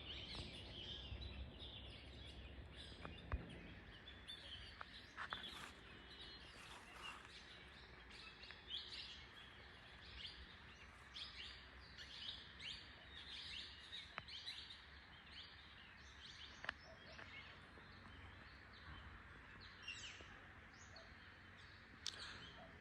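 Faint chorus of many wild birds chirping and calling, short high notes overlapping one after another.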